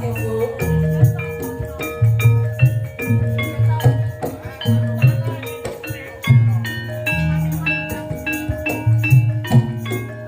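Gajah-gajahan Ponorogo folk band music: a steady pattern of low drum hits under a quick melody of short, ringing struck notes.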